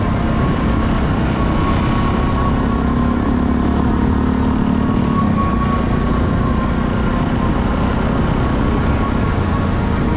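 Enduro motorcycle engine running steadily under way, with a dense, even drone and no marked revving.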